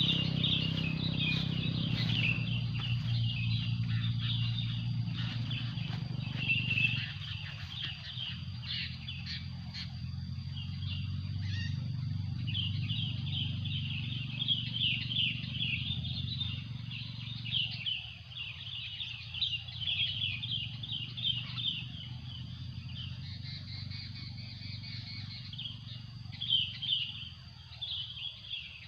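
Wild birds chirping in quick, dense runs of high notes, over a low steady hum that fades out partway through.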